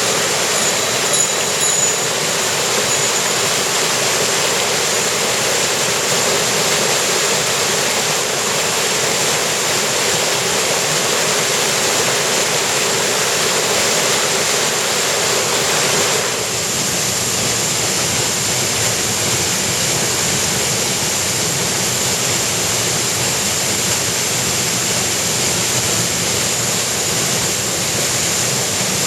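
Rushing water of a mountain stream, a steady loud hiss of water tumbling over rocks. Its sound changes abruptly and gets slightly quieter about sixteen seconds in.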